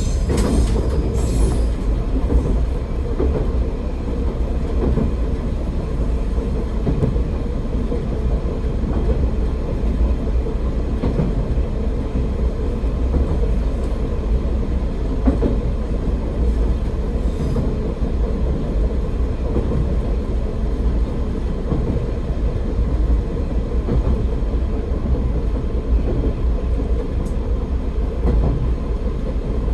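AN-8800 diesel railcar running along the line, heard from inside the car: a steady drone of engine and wheel rumble on the rails.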